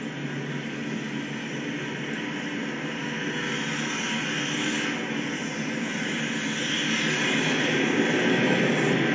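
Freight train cars rolling past at speed, a steady rumble and rail noise that grows gradually louder.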